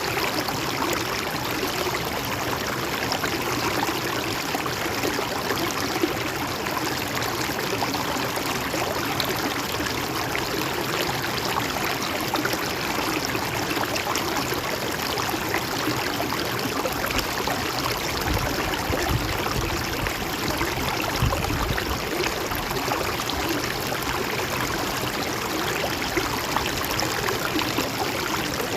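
A gently flowing river, its water running with a steady babble and gurgle.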